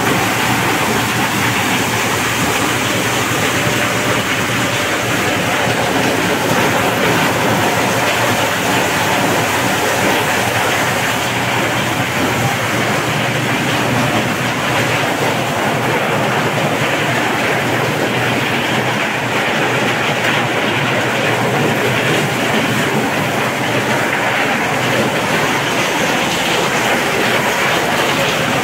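Corn shelling machine running steadily, a loud continuous mechanical noise as it strips cobs down to loose kernels.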